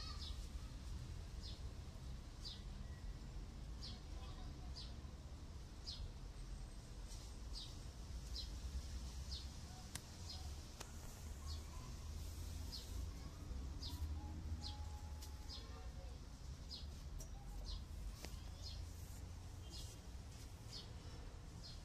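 A small bird chirping over and over, short high chirps about one to two a second, over a low steady rumble.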